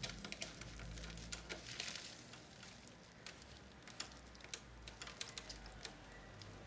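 Scattered small clicks and taps with a brief scrape about two seconds in, from hands working on the plastic parts of a vintage radio cassette recorder being taken apart.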